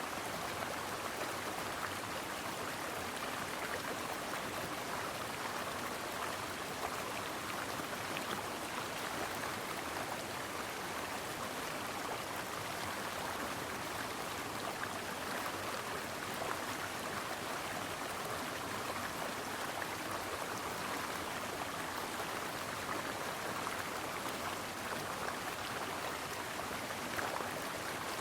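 A brook flowing steadily: an even rush of water with no single splash or event standing out.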